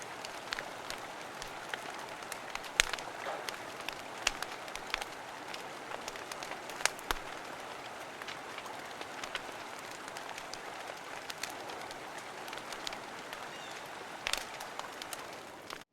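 Wood fire in a fire pit crackling, with sharp irregular pops, over the steady rush of a nearby river.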